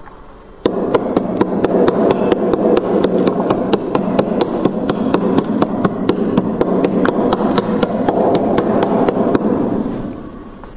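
Freezer frost being scraped off with a tool in a fast run of scrapes, sharp clicks about four a second. It starts suddenly just under a second in and fades out near the end.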